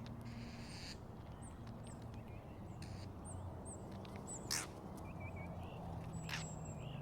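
Birds calling: scattered short high chirps and a few short sharp calls, over a steady low hum.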